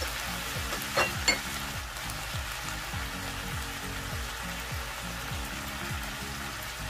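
Squid, onion and chilli sizzling as they stir-fry in oil in a pan, a steady hiss, with two sharp clicks about a second in.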